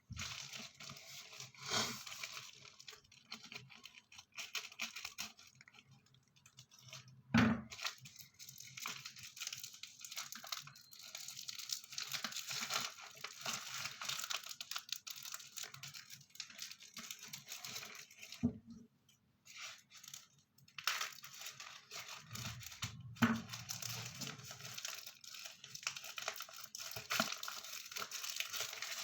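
Sticker packaging being torn open and handled: continuous rustling and crinkling with a few louder knocks, the loudest about seven seconds in.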